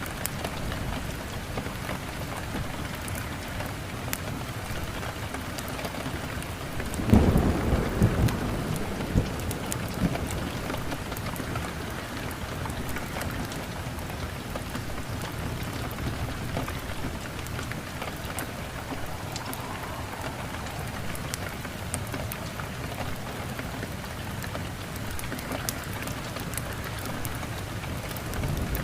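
Steady heavy rain, with a rumble of thunder about seven seconds in that lasts about three seconds, and another roll beginning near the end.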